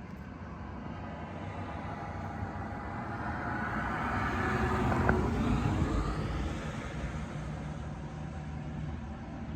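A motor vehicle passing by, growing louder to a peak about halfway through and then fading, over a steady low engine hum.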